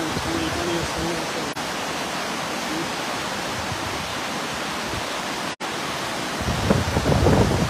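Flood-swollen mountain river rushing, a loud steady roar of water. Near the end a louder, rougher rumble comes in.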